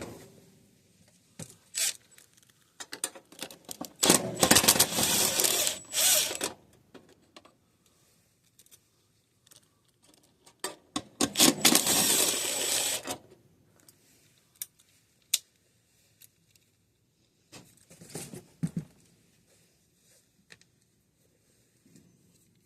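Rapid clicking and rattling of tools and parts being worked by hand, in two longer bursts about four and eleven seconds in, with scattered single clicks and a shorter burst near the end.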